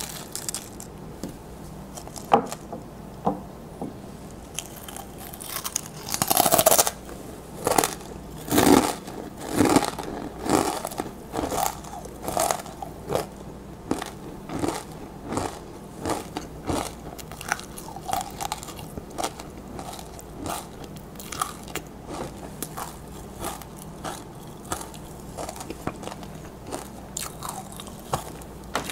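Close-miked crunching of tortilla chips being bitten and chewed. The loudest bite comes about six to seven seconds in, followed by a run of crunches at a little over one a second that gradually grow softer.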